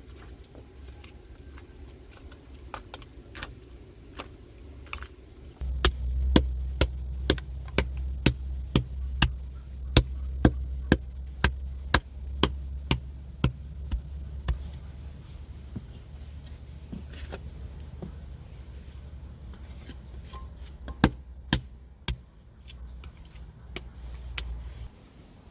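A run of sharp knocks, about two a second, over a low rumble, then a few scattered knocks near the end.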